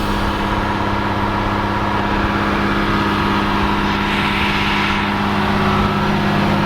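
Truck's diesel engine idling steadily, building up air pressure for the brakes.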